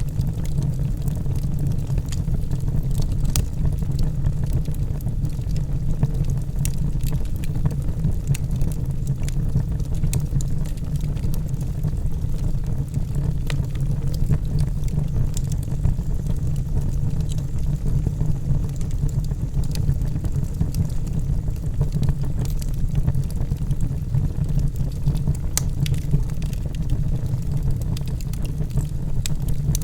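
Wood logs burning in a fireplace: a steady low rumble of the flames with scattered sharp crackles and pops.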